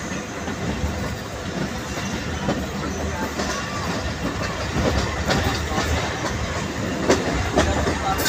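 Pakistan Railways passenger train running along the track, heard from on board: a steady rumble of wheels on rails with irregular sharp clicks as the wheels cross rail joints, more of them in the second half.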